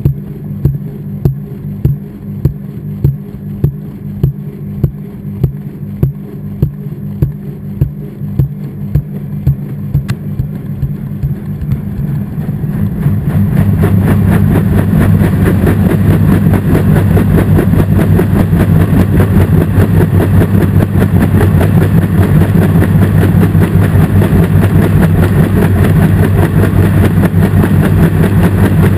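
Washing machine heard from inside its drum. The drum turns with a regular knock about one and a half times a second. About twelve seconds in, the noise builds into a loud steady whir as the drum speeds up into the spin cycle.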